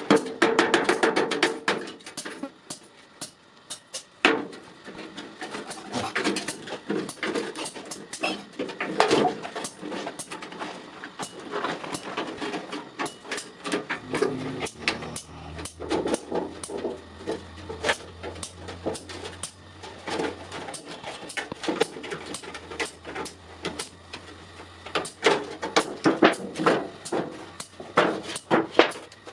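Iron being hammered and handled: irregular sharp metal knocks and clanks, some with a short ring, coming at an uneven pace.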